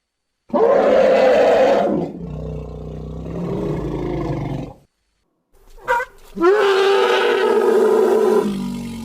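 Dinosaur roar sound effects for a Dicraeosaurus: a loud, long roar, then a lower rumbling growl. After a short pause comes a brief sharp call about six seconds in, then a second long roar that sinks into a low rumble near the end.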